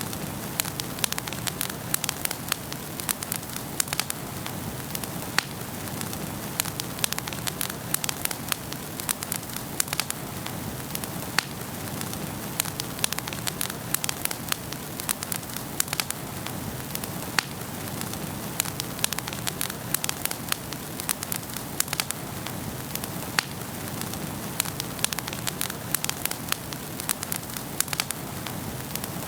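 Wood fire burning in a fireplace, crackling and popping with many sharp irregular snaps over a steady hiss.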